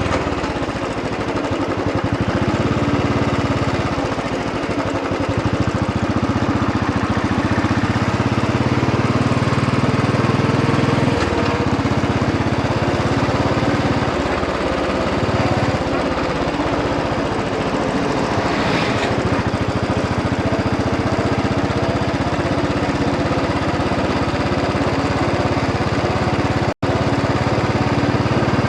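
Royal Enfield Bullet 500 EFI's single-cylinder engine running steadily under way at low speed, its pitch shifting slightly with the throttle. The sound cuts out for an instant near the end.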